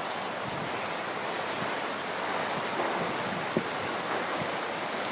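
Steady rush of tropical-storm rain and wind, with a few short sharp ticks, the clearest about three and a half seconds in.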